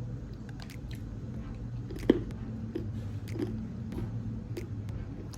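Pistachios being cracked and chewed: one sharp crack about two seconds in, then a run of crunches about every half second.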